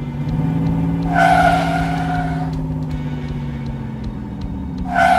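Toy-video car sound effect: an engine drone running steadily, with two screeching skids, about a second in and again near the end.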